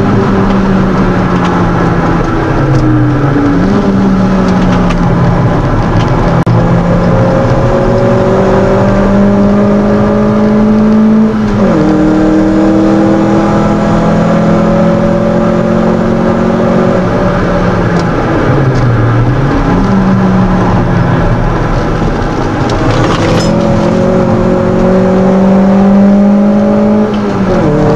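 Mitsubishi Colt 1600's 1.6-litre four-cylinder engine heard from inside the cabin, driven hard on track. Its pitch climbs under acceleration, drops sharply at gear changes about eleven seconds in and near the end, and twice sags low before jumping back up.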